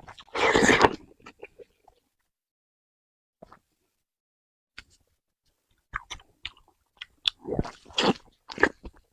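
Close-miked eating of braised pork: a loud bite in the first second, a few seconds of near silence, then a run of short chewing clicks and bites in the last three seconds.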